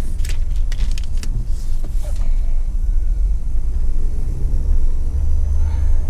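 Car driving slowly: a steady low rumble of engine and road, with a few light clicks and knocks in the first two seconds.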